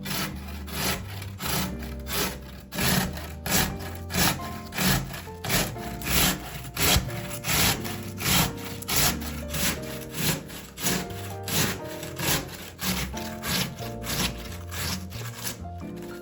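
Vegetables being grated by hand on a metal grater: a steady run of rasping strokes, a bit more than one a second, over background music.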